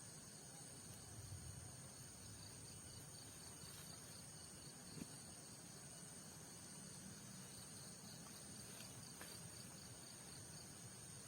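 Faint chorus of night insects in tropical forest: a steady high-pitched buzz, with a second, pulsing trill joining twice, about two seconds in and again near the end.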